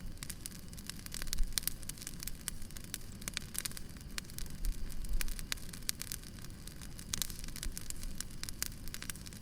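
Wood fire crackling, with irregular sharp pops over a low, steady rumble.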